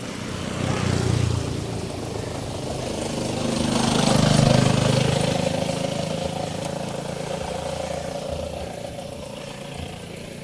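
A motor vehicle's engine running. It grows louder to a peak about four to five seconds in, then slowly fades.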